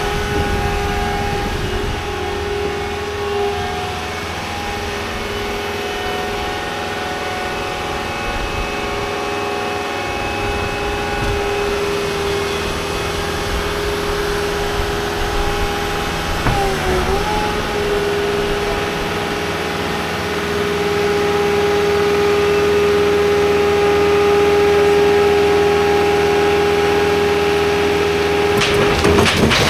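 Engine running steadily with a droning whine, its pitch dipping briefly about two-thirds of the way through.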